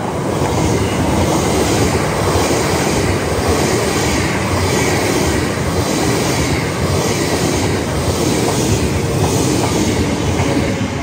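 GWR Class 800 Intercity Express Train passing through the station close by: a loud, steady rush of wheels and bodywork, with a faint beat repeating about every two-thirds of a second as the carriages go by. It swells as the train arrives and eases near the end as the last coaches pass.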